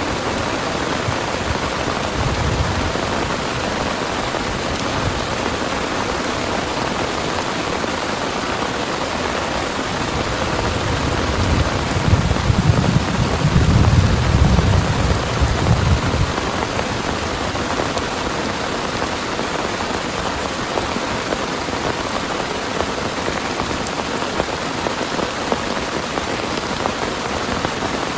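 Heavy rain pouring steadily, with a low rumble of thunder swelling and fading about halfway through.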